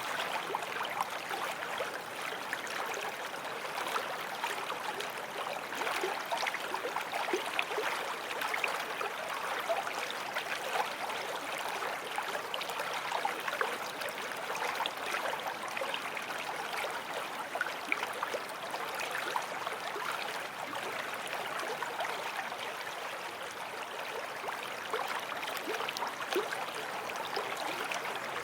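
A small forest stream flowing over stones, a steady babble of running water with many small splashes and gurgles throughout.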